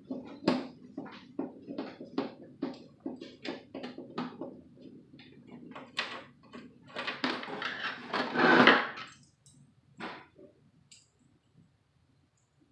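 Light clicks and knocks of small parts being handled, two or three a second, then a louder stretch of scraping and rustling about seven seconds in, followed by a few last clicks.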